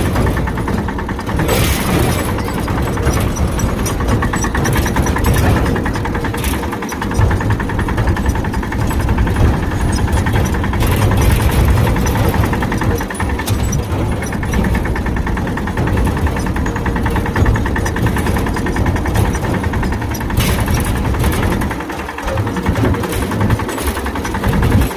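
Tractor engine running steadily and loudly, with a dip in level about 22 seconds in.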